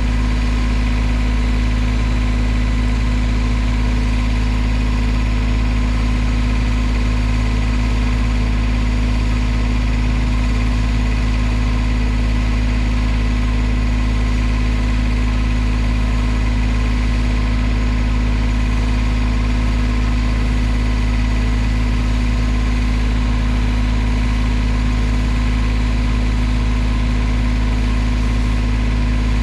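Engine running at a steady idle, a low even drone with no revving.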